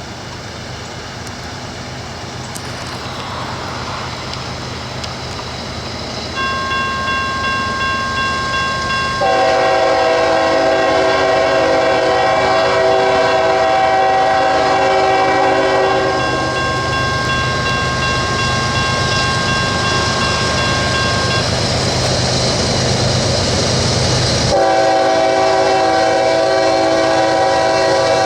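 An approaching CSX freight train's locomotive rumbles louder. A steady ringing begins, then the multi-chime air horn sounds a long blast of several notes at once. After a break of several seconds the horn sounds again.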